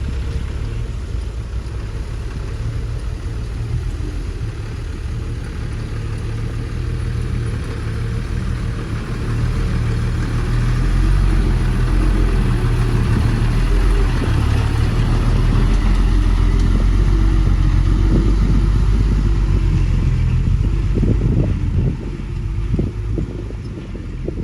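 Heavy diesel engine running under load. It grows louder about ten seconds in and eases off near the end, with a few dull thuds.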